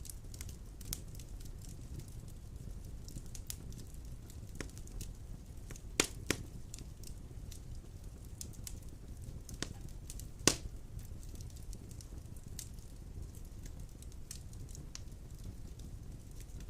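Wood fire burning in a stone fireplace: a steady low rumble of flames with scattered crackles and a few sharp pops, the loudest about six seconds in, again just after, and about ten and a half seconds in.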